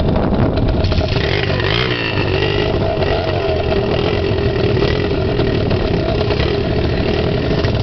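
Dirt bike engine running steadily, its pitch dipping and rising briefly about two seconds in.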